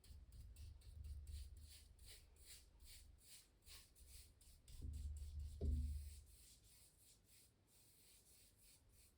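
Faint, quick scratchy strokes of a drawing or painting tool on canvas, about two to three a second, with two dull low bumps about five seconds in. The strokes die away near the end.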